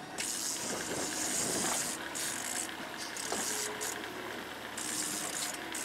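Fishing boat's engine running steadily, with a high hiss that cuts in and out several times.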